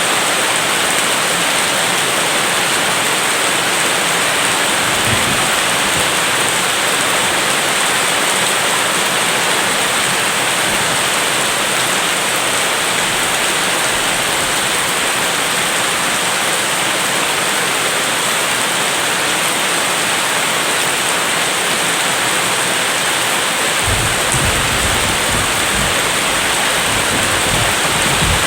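Steady, heavy rain falling in a thunderstorm, an even hiss of drops, with a low thunder rumble about five seconds in and again near the end.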